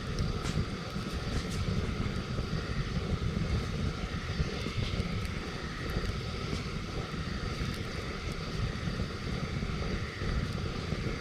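Wood campfire burning, with a few faint, scattered crackles over a steady low rumble.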